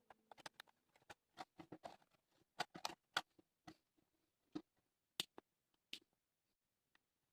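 Faint, irregular clicks and taps, many in the first three seconds and fewer after, dying away near the end.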